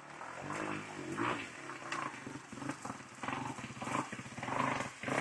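Honda 150cc dirt bike engine running rough with the choke on, sputtering and surging unevenly as it bogs.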